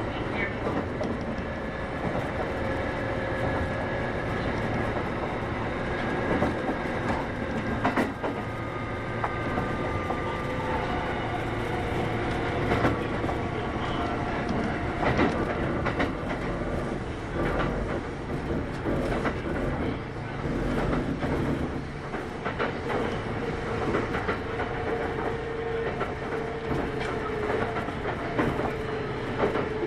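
Kintetsu 8810-series electric train running at speed, heard from inside the car: steady rolling noise with scattered clicks and knocks from the wheels over the rail joints and a few faint steady tones.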